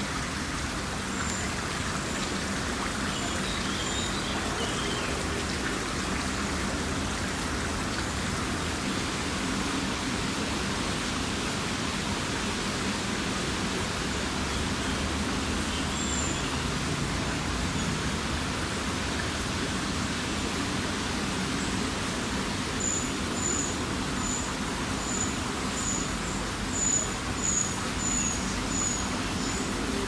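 Steady outdoor background hiss with a small bird's high, thin call notes: a few early on, then a run of about two a second near the end.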